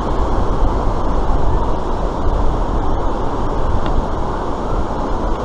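Steady rushing of white water pouring down an artificial slalom course.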